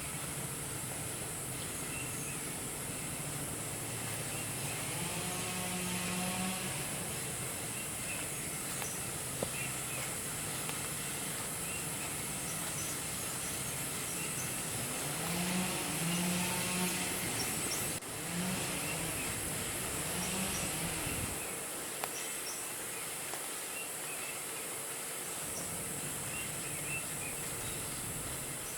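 Steady high-pitched forest insect chorus with a few scattered bird chirps. A low, distant motor drone swells about five seconds in and again from about fifteen to twenty-one seconds, gliding up and down in pitch before fading.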